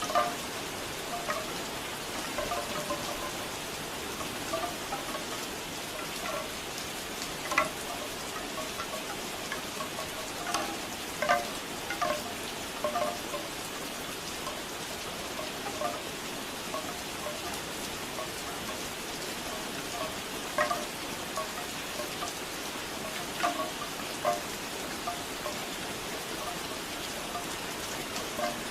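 Bamboo wind chimes clacking irregularly in a hollow, woody patter over steady rain, with a few sharper knocks now and then.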